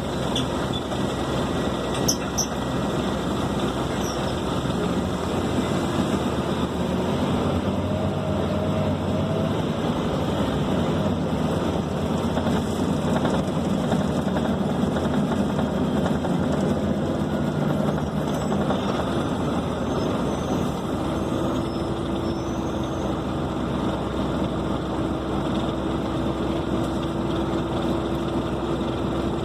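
Scania K270 city bus under way, heard from inside the passenger cabin: steady engine and road noise, with the engine note shifting in the middle and a steady whine joining about two-thirds of the way through.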